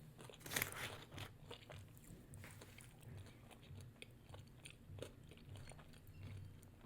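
Faint chewing and crunching of crispy fried food, a scatter of short crunches, the loudest cluster about half a second to a second in.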